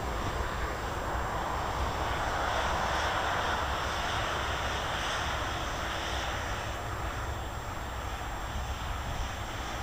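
Jet airliner engines roaring as the plane passes near the runway end, the noise swelling to a peak about three to four seconds in, then slowly fading.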